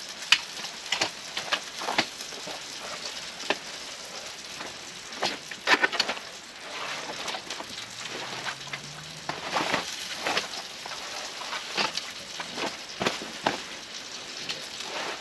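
Rain falling: a steady hiss with irregular louder drips tapping close by.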